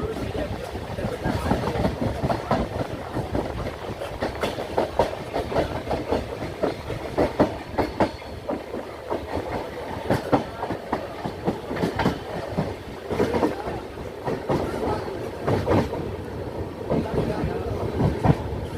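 Vaigai Superfast Express passenger train running on the rails, with a steady rumble and a rapid, irregular clatter of wheel and coach knocks.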